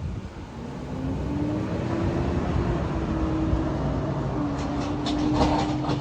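A vehicle passing on the street: a broad swelling rumble with an engine hum that rises in pitch and then holds steady, and a short run of clattering clicks near the end.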